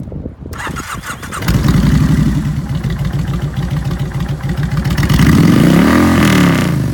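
1999 Kawasaki Drifter 1500's V-twin engine with a Vance & Hines exhaust, cranked on the starter and catching about a second and a half in. It settles to a loud idle, then is revved once near the end, the pitch rising and falling back.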